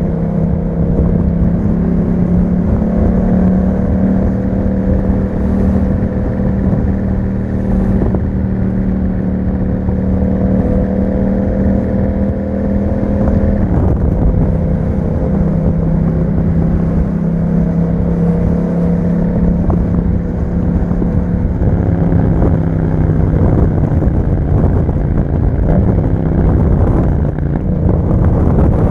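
Yamaha MT-07's parallel-twin engine running through an Akrapovic exhaust while riding, holding a steady engine speed. Its pitch dips briefly about halfway through, then settles and holds again.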